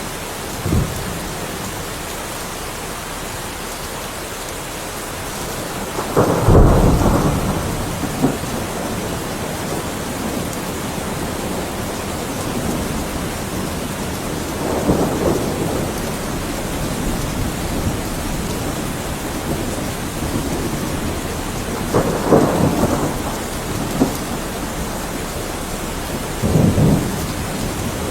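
Steady heavy rain hiss with rolls of thunder. The loudest rumble comes about six seconds in, and weaker ones follow around fifteen, twenty-two and twenty-six seconds in.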